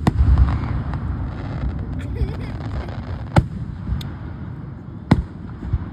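Fireworks going off: a loud bang right at the start followed by a low rolling rumble, then single sharp reports about three and a half, four and five seconds in.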